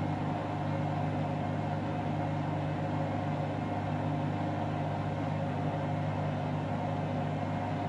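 Candy washing machine on a spin cycle set to 1600 rpm, the drum spinning at a steady high speed with an even motor hum and whine.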